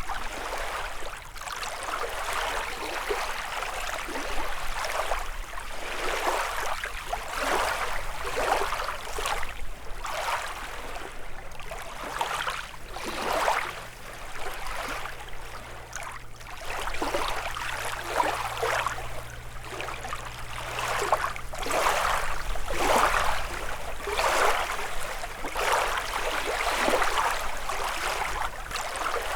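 Small lake waves lapping and splashing against the shore in a quick, irregular run of splashes.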